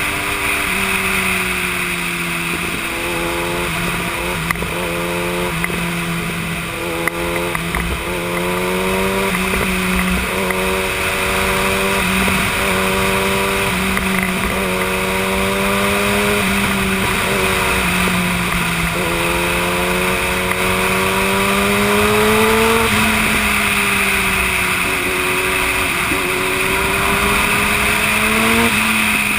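Yamaha YZF-R1 inline-four engine running at cruising revs, its pitch rising and falling a little as the throttle is rolled on and off, with steady wind rush on the microphone.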